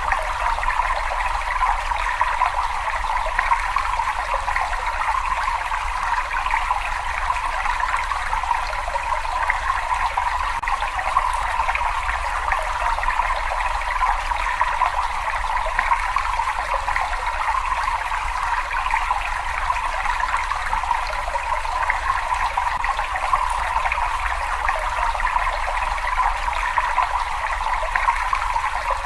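Water running and trickling steadily, an even, continuous rush with no breaks.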